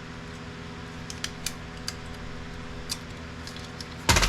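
Light clicks and clinks of small plastic and metal printer parts being handled during disassembly, then a louder knock about four seconds in, over a steady low hum.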